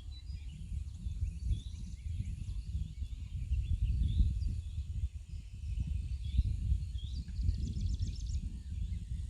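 Outdoor ambience: wind rumbling on the microphone, with small birds chirping throughout and a fast rattling trill about three-quarters of the way through.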